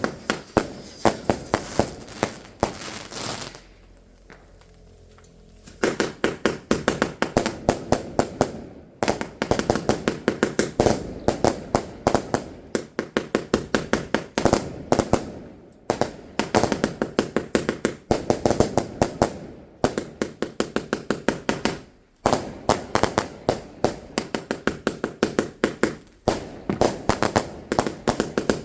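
Fireworks going off in a rapid string of sharp bangs, several a second, with a pause of about two seconds around four seconds in and a short break near the end.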